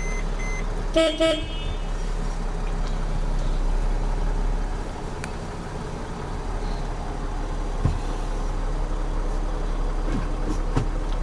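Mercedes-Benz Sprinter van's engine idling steadily. About a second in, a loud short double toot cuts across it, and a few light clicks come later.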